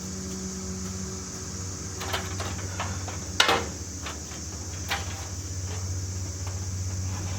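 A steady low engine hum, with a few sharp knocks over it about two, three and five seconds in; the loudest knock comes about three and a half seconds in.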